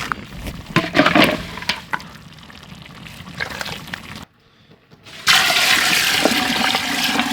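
Water splashing and pouring, with sharp clicks in the first half. After a brief drop-out about four seconds in, a loud, steady rush of pouring or running water follows.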